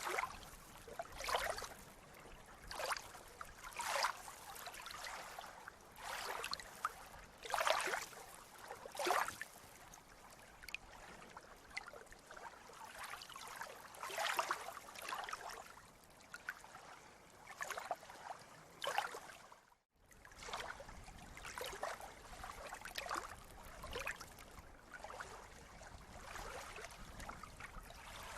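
Water lapping and splashing in irregular small surges about every second, as of small sea waves washing in. The sound cuts out for an instant about two-thirds of the way through.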